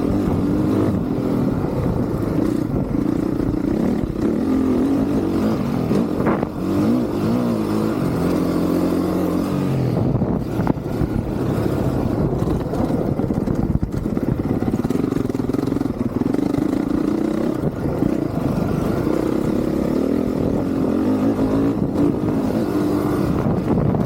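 Honda CRF450R's single-cylinder four-stroke engine under riding load, its pitch rising and falling over and over as the throttle opens and closes, with one longer drop in revs around eight seconds in.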